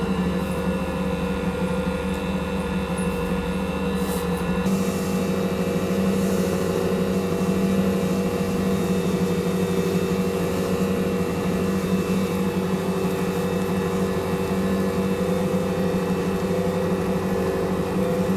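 Electric stand mixer motor running steadily, kneading bagel dough, with a constant hum.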